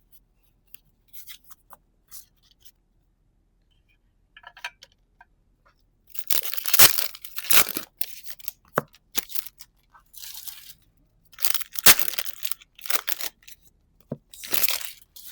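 Foil trading-card booster packs being torn open: several short, loud ripping bursts in the second half, after a few seconds of light clicks from handling the cards.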